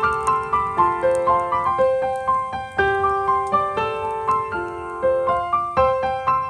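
Background music: a gentle piano melody of evenly paced notes, its phrase repeating about every two seconds.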